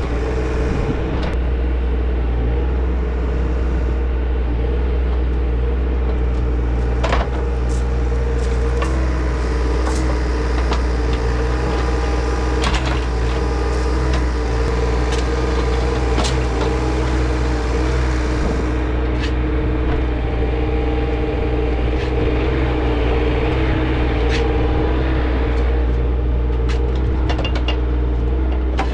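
Diesel engine of a compact earthmoving machine running steadily, with scattered clicks and knocks over it.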